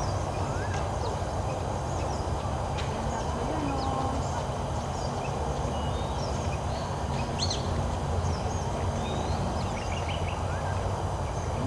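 Several birds chirping and calling in short, scattered notes over a steady low rumble.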